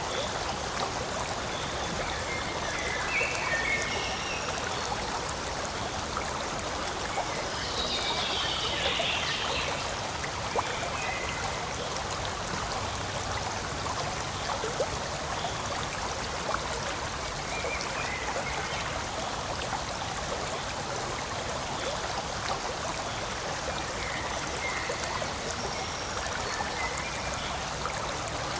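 Forest stream running: a steady rush and trickle of flowing water, with a few brief higher chirps over it.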